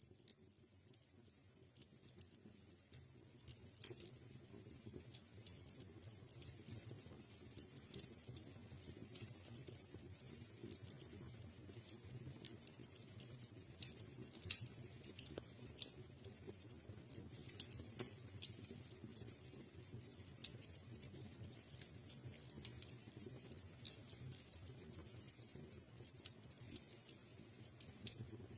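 Wood fire burning in a fireplace: a low steady rumble of flames with irregular crackles and occasional sharper pops. It fades in over the first couple of seconds.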